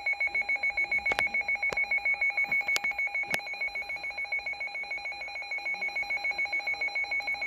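Emergency alert tone sounding for a tornado warning: a steady two-pitch alarm, one lower and one high pitch, pulsing rapidly and evenly. A few sharp clicks occur in the first few seconds.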